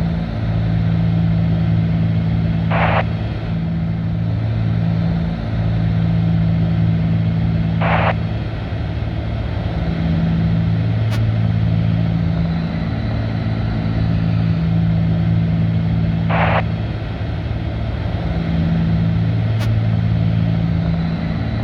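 Cabin drone of a Cessna 310's two piston engines and propellers at cruise, a steady low hum that pulses slowly as the two engines drift in and out of step. Three short hissy bursts break in along the way.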